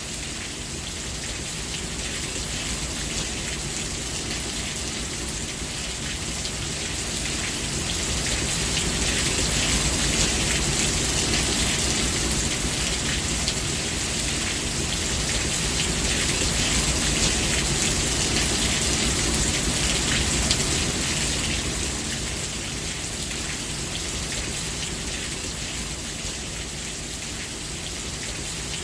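Steady rain falling and pattering on surfaces, with a low rumble underneath; it swells a little louder for about a dozen seconds in the middle, then eases back.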